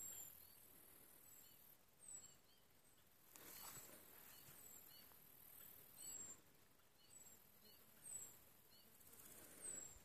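A bird calling faintly, short high-pitched chirps sliding downward, repeated every second or two, over a faint steady high hiss.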